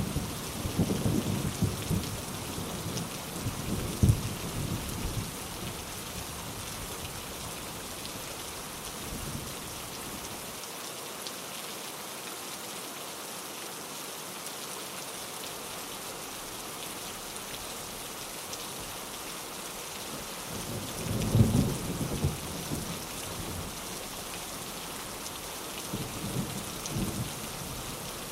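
Steady rain falling, with rolling thunder rumbling low over the first few seconds, again about three quarters of the way in, and more softly near the end.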